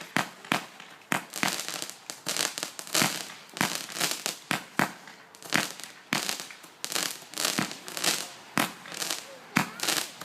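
A firework called "Menace" firing a continuous, irregular series of sharp bangs, about one or two a second, with crackling between the shots.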